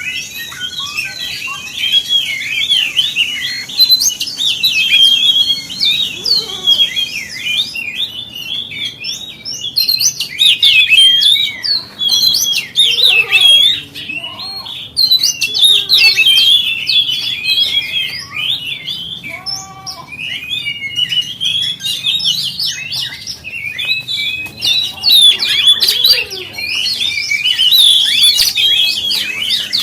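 Oriental magpie-robin (kacer) singing a rapid, varied song of quick whistles and chirps with hardly a break, with a few lower whistled notes near the middle.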